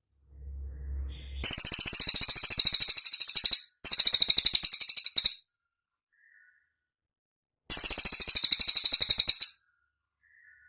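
Cililin bird singing: three fast, very high-pitched trills of about two seconds each. The first two nearly run together and the third follows a two-second pause. A faint low rumble comes just before the first trill.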